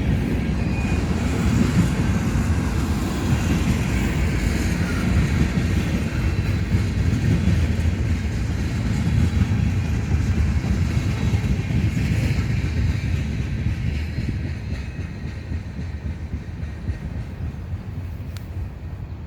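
A train passing close by: the steady rumble and rattle of the rail cars rolling along the track, fading away over the last few seconds.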